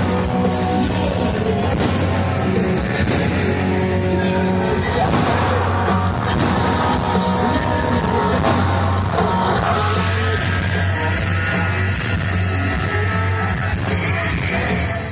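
Rock music with a singer and electric guitar, playing steadily throughout.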